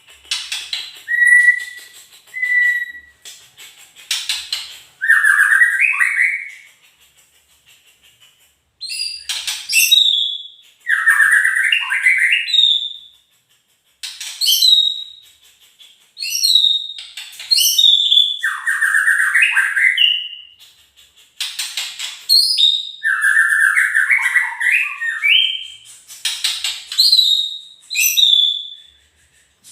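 White-rumped shama (murai batu) singing: loud, varied phrases of clear whistles mixed with quick rattling notes, with short pauses between phrases.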